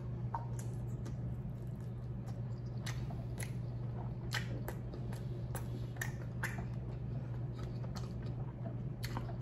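Close-miked chewing and biting on barbecue-sauced pork ribs, with scattered wet mouth clicks and smacks over a steady low hum.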